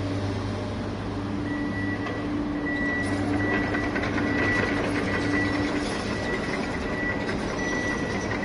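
Machinery running steadily, with a low hum and a faint high whine over a noisy rumble.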